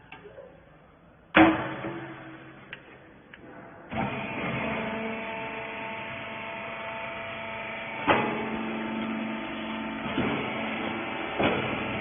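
A sharp metallic bang rings out about a second and a half in. About four seconds in, the wiper bagging baler's motor and hydraulic pump start and run steadily with a mechanical hum, with two more clanks during the run.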